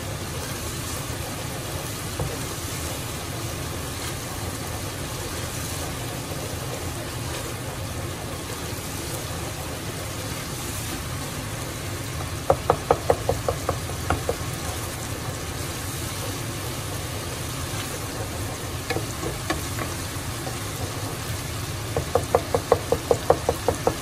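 Dal frying with onion-tomato masala in oil in a pot while being stirred with a wooden spoon, giving a steady sizzle. Two short runs of quick ticks come about halfway through and again near the end.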